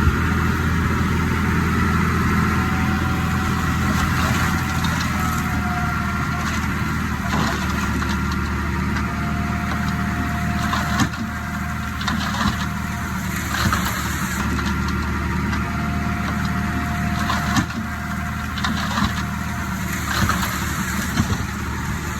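Heavy diesel engine of earthmoving machinery running steadily, with scattered metallic clanks and a thin squeal that comes and goes.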